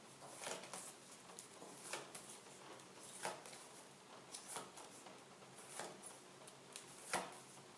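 A pile of phonics flashcards being shuffled and handled: scattered soft rustles and taps of card, none of them loud.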